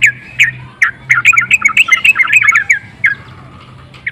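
Sooty-headed bulbul (trucukan) calling in a loud, fast run of short chattering notes. The chatter is densest from about a second in until near three seconds, then thins to single notes. It is the excited 'ngagaruda' chatter that keepers play to provoke other bulbuls.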